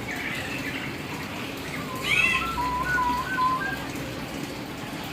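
Hill myna calling: a sharp arching call about two seconds in, followed by a string of short, clear whistled notes, over a steady hiss.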